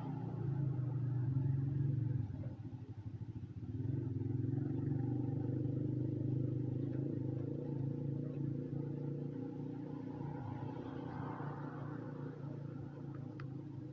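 A motor vehicle's engine running steadily. It drops and flutters briefly about two seconds in, then runs on steadily, with a few sharp clicks near the end.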